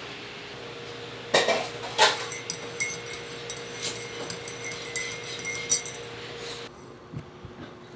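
Dishes and cutlery clinking: two sharp knocks, then a run of lighter irregular clinks of metal on ceramic or glass that stops near the end.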